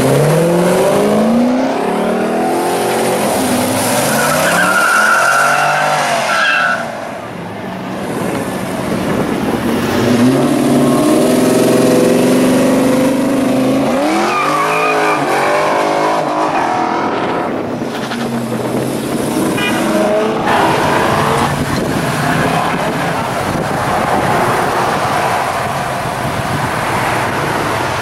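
Several muscle cars and hot rods accelerating away and passing one after another, among them a C6 Corvette's V8 pulling out; each engine note climbs as it revs through the gears and then falls away as the car goes by.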